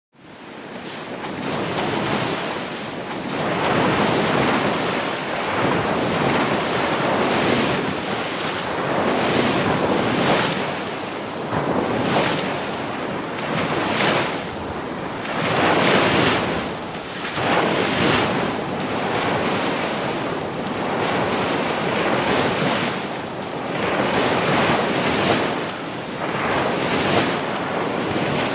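Ocean surf breaking and washing in, a steady rush that swells and falls back every couple of seconds. It fades in from silence at the very start.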